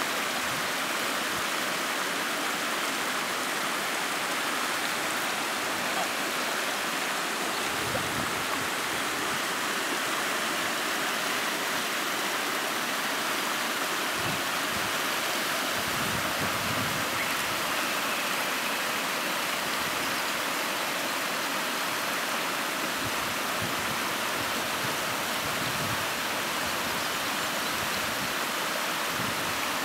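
Mountain stream rushing steadily over rocks, a constant even wash of water.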